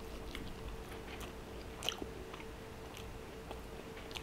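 A person chewing a mouthful of meat close to the microphone: faint, scattered wet mouth clicks, with one sharper click about two seconds in.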